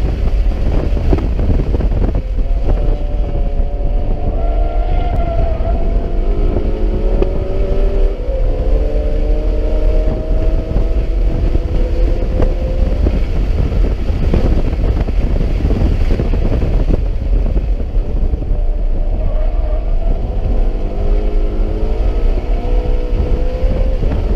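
BMW E92 M3's 4.0-litre V8 running hard on track, heard from inside the cabin over heavy low road and wind rumble. The engine note climbs steadily in pitch for several seconds as the car accelerates, eases off around the middle, then climbs again near the end.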